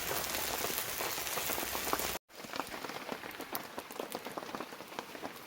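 Heavy rain falling steadily, dense and hissing. About two seconds in it breaks off for an instant, then comes back quieter, with single drops ticking out of the patter.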